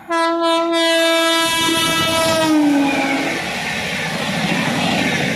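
Local train's horn sounding one long blast, broken for an instant at the start, that drops in pitch and stops about three seconds in. Under it the rumble and clatter of the train running by rises and carries on.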